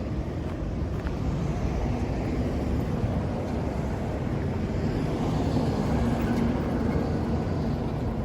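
Honda CRF250L's single-cylinder four-stroke engine running at a steady idle.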